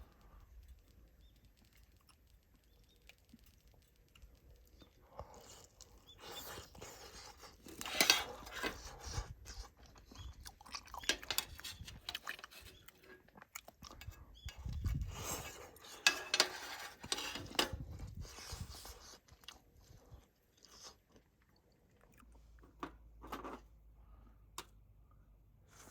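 A person chewing crunchy food, in two spells of crunching several seconds apart, with scattered sharp clicks between.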